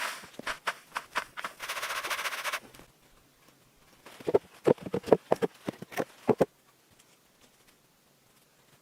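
Knocks and blows on wood: a quick run of sharp knocks, a short scraping burst, then about eight heavier, deeper strikes in quick succession.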